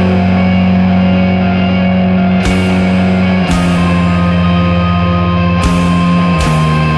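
Post-rock/screamo band playing loud: held guitar and bass chords that change every second or so, with cymbal crashes about four times.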